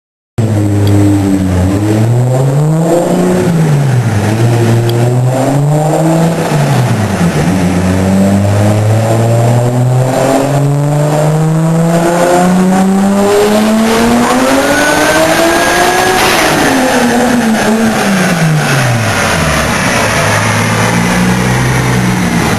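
Single-turbo Toyota Supra's inline-six running on a chassis dyno. A few short revs rise and fall, then one long full-throttle pull climbs steadily in pitch for about eight seconds, peaks about sixteen seconds in, and falls away to a steady low run.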